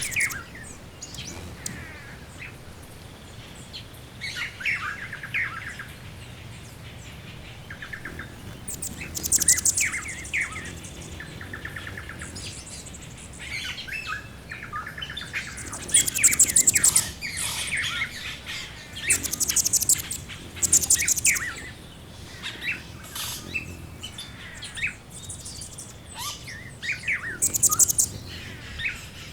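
Several wild birds chirping and singing together: short, lower chirping phrases overlapping with loud, very high, rapid trills that come several times.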